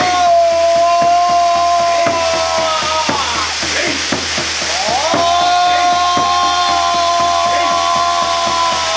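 Steady rush of a waterfall, with two long held pitched notes over it, each about four seconds, sliding up at the start and falling away at the end.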